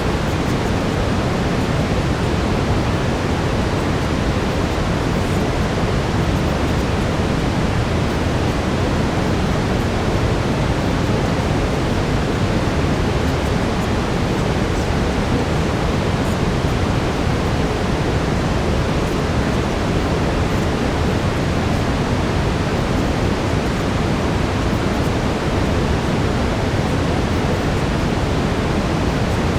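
Steady brown noise, a deep even hiss heaviest in the low end, unchanging throughout.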